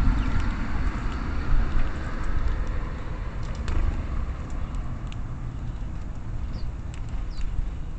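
A road vehicle passing, its noise fading away over the first few seconds, over a steady low rumble. A few short, high bird chirps come near the end.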